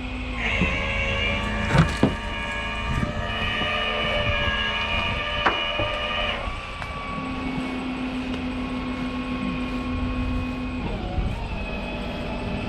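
Tow truck engine and winch hydraulics running with a steady mechanical whine made of several tones. The pitch steps up about half a second in, drops back around six seconds and shifts again near eleven seconds, as the recovery winch is worked. A few sharp metallic clanks come near two seconds and again at about five and a half seconds.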